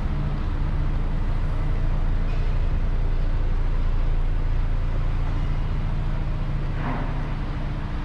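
Mazda CX-5 engine idling steadily, heard close to the rear of the car.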